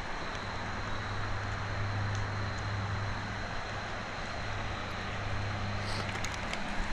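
A steady low engine hum over a constant rushing noise, with a few light clicks near the end.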